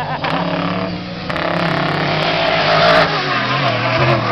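Off-road race vehicles' engines running hard on the track, growing louder about a second in as they come closer.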